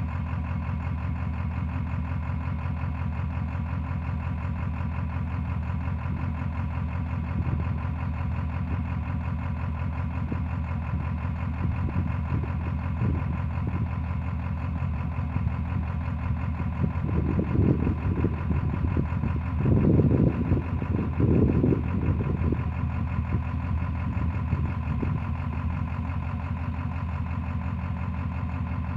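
Ford 7.3 Power Stroke V8 turbo-diesel idling steadily at constant speed, on an engine the owner reports as misfiring. A few louder bursts of noise come through about 17 to 22 seconds in.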